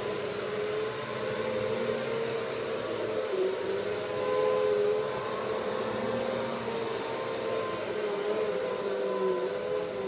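Vacuum cleaner running steadily with its motor whine and suction noise, the pitch wavering slightly as it works.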